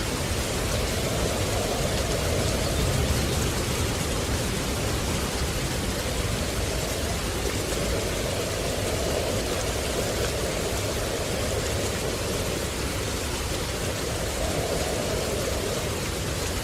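Steady rain, an even hiss, with a deeper rushing underneath that swells and fades a few times.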